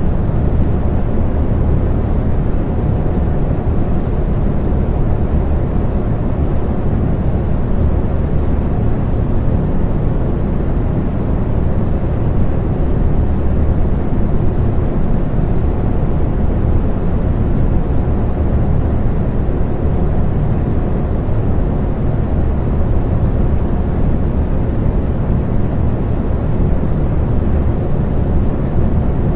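Electric fan running steadily: an even, low-pitched whoosh of moving air with a faint steady hum, unchanging throughout.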